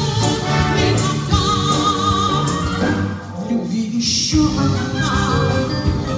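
Brass band playing, with a woman singing held notes with vibrato over it. There is a short lull about three seconds in.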